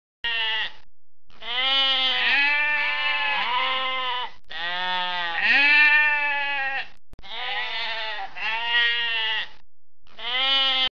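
Sheep bleating repeatedly: a run of long, wavering bleats, some overlapping, in several groups with brief gaps between them.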